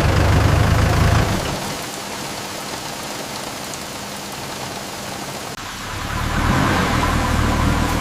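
A bus engine running under steady rain on the roof and windows. The engine hum fades about a second in, leaving mostly the rain, and comes back near the end.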